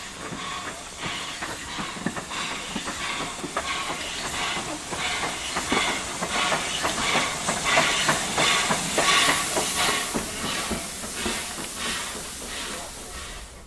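Steam train under way: a tank engine working with rhythmic beats, about three a second, over a steady hiss of steam. The sound grows louder through the middle and eases off near the end.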